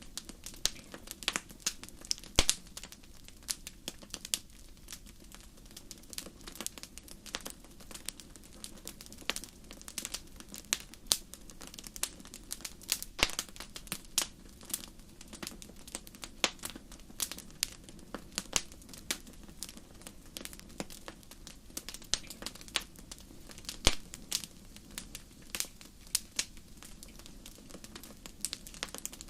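Fire crackling in a fireplace: frequent irregular pops and snaps, a few much louder than the rest, over a low steady rush of the flames.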